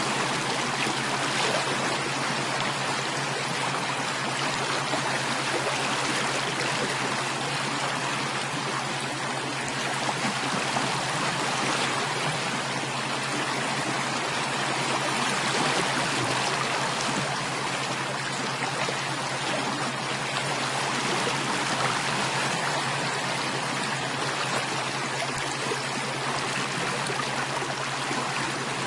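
Running water of a stream or brook, flowing and splashing evenly without a break, with a faint steady low hum beneath it.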